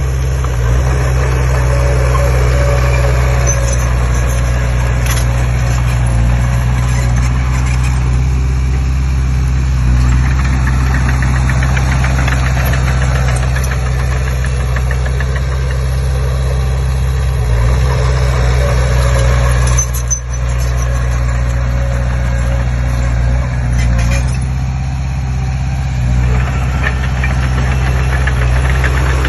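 Komatsu D20P bulldozer's diesel engine running steadily, with a brief dip in level about twenty seconds in.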